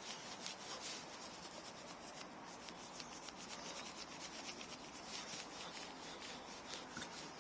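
Faint, steady rubbing and scuffing with many small clicks throughout: handling noise of the phone's microphone brushing against something.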